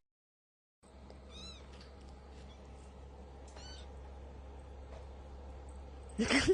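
A domestic cat making two brief, faint chirping meows over a low steady hum, then a louder, rising cry near the end.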